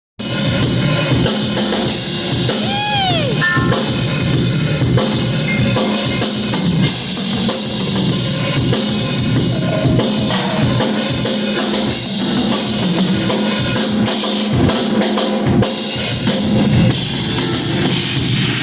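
Live band playing loud, with a drum kit to the fore: bass drum and snare under the instruments. A brief swooping note rises and falls about three seconds in.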